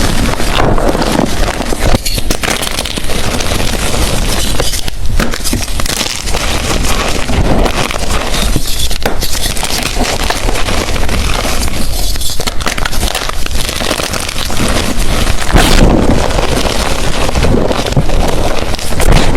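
Blocks of gym chalk being crushed and crumbled by hand: a dense, close crackling crunch with brief lulls every few seconds.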